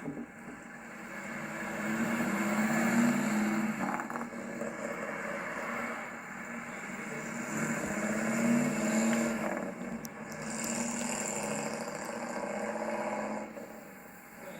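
Ford 289 V8 with dual exhaust under way, accelerating in repeated pulls that swell and ease off, with brief breaks about four and ten seconds in.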